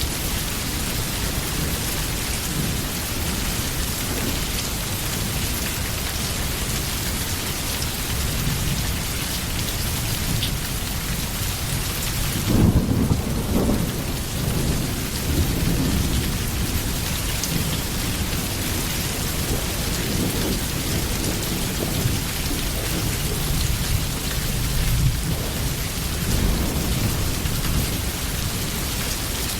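Steady rain falling, with a low roll of thunder breaking in about halfway through and rumbling on more softly afterwards.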